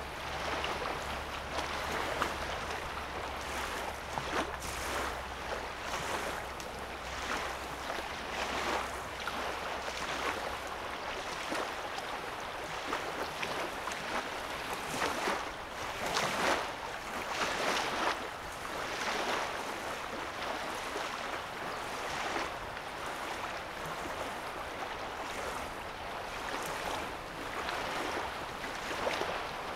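Small waves lapping gently and irregularly on a calm lake's sandy shoreline, a soft swell every second or two. A faint low hum runs underneath for about the first ten seconds, then stops.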